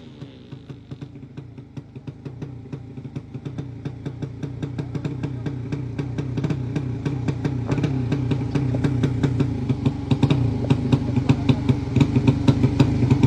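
Racing motorcycle engine idling at very low revs in a sleep-engine contest, each firing heard as a separate chug at about three a second. It grows steadily louder.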